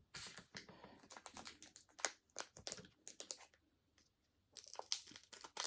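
Crinkling and rustling of a Pokémon booster pack's foil wrapper and trading cards being handled: a run of short, crackly clicks with a brief pause about four seconds in.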